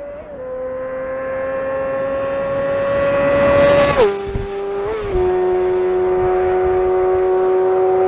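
Honda CBR600RR motorcycle with a Two Brothers Black Series slip-on exhaust, accelerating with a slowly rising engine note. About four seconds in the note drops sharply at an upshift, then holds steady at a lower pitch and grows louder.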